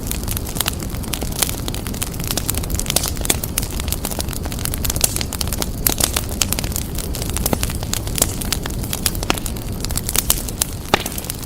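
Fire burning in a fireplace, crackling and popping in many sharp, irregular snaps over a steady low rumble.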